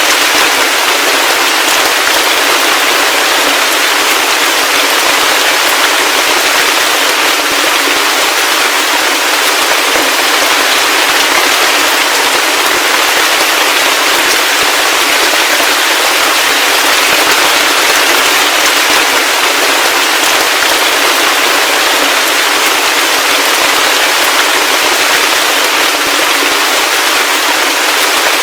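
Heavy rain falling steadily, a dense crackling patter with almost no low rumble.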